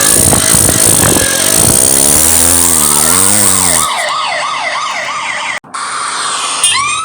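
Cartoon vehicle sound effects: a loud, noisy vehicle rumble whose pitch wavers for the first few seconds, joined and then followed by a siren wailing up and down. The sound cuts out sharply for a moment about five and a half seconds in, and a new siren tone rises in pitch near the end.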